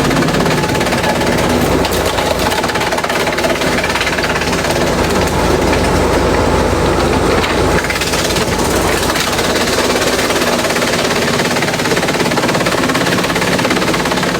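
Industrial bamboo shredder running loud and continuously as it grinds bamboo, with a steady machine hum under the grinding noise. The low end gets heavier for a few seconds in the middle.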